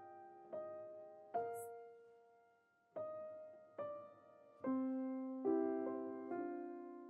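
Background music: a slow solo piano melody, single notes struck roughly once a second, each left to ring and fade.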